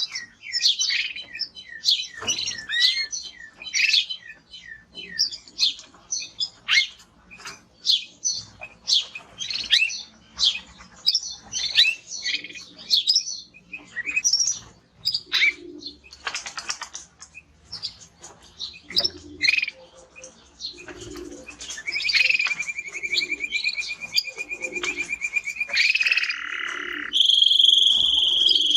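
Male canary singing: rapid, varied chirps and short whistled notes, then a long, even rolling trill from about two-thirds in, which jumps to a higher, louder trill near the end.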